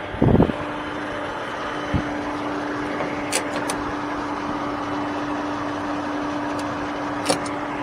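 A vehicle running with a steady hum and an even rushing noise. A heavy thump comes just after the start, and a few light clicks follow later.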